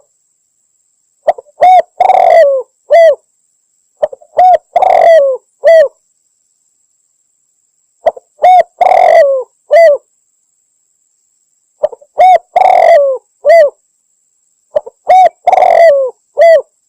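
Spotted dove (tekukur) cooing: five repeated phrases of several rounded coo notes, each phrase about two seconds long and spaced about three to four seconds apart. It is a hunters' lure-call recording, sold as a female calling to draw in males.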